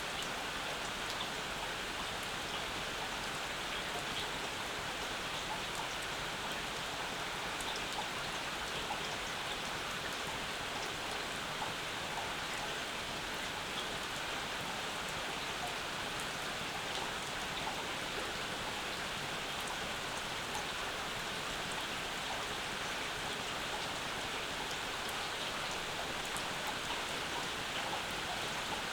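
Steady rainfall, with a dense patter of drops on surfaces and no change in strength.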